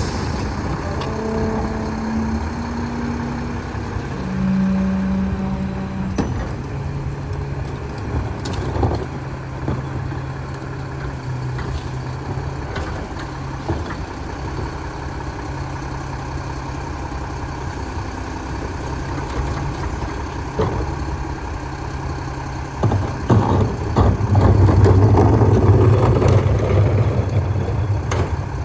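Mack Granite garbage truck's diesel engine running at a steady low idle, with a few scattered knocks and short tones early on. About 23 seconds in the engine rises and gets louder for a few seconds, then settles again.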